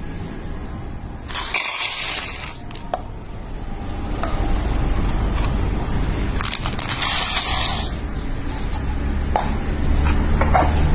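Electric coffee grinder's motor running with a low, steady hum that grows louder toward the end, with two short bursts of hiss along the way.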